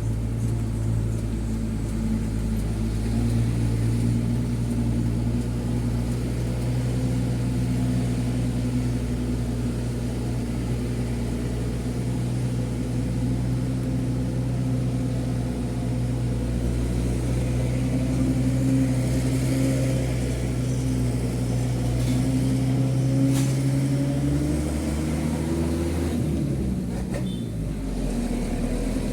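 Mitsubishi Fuso 135PS truck's diesel engine running steadily under way, heard from inside the cab; near the end its note drops and changes before settling again.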